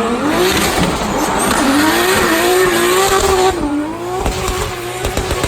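Drift car's engine revving up and down hard with tyres squealing through a drift, the engine pitch rising and falling. The tyre noise eases a little more than halfway through.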